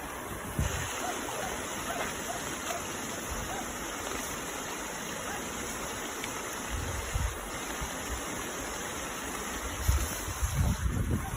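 Steady rushing noise of water and wind, with low buffeting rumbles of wind on the microphone about seven and ten seconds in.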